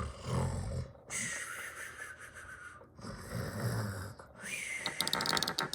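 A person making silly snoring and snorting noises with their voice, about four drawn-out noisy breaths in a row, the last breaking into a fluttering rattle near the end.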